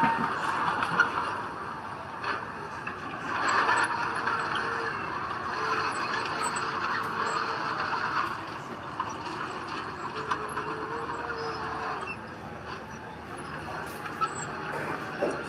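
Diesel engine of heavy earthmoving machinery (dump truck or bulldozer) running under load, its pitch wavering slightly, with occasional short clanks.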